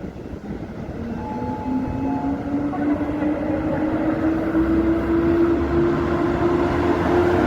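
EU07 electric locomotive with a passenger train, its traction motors whining in one tone that rises slowly in pitch as it grows louder. A brief higher tone sounds about a second in.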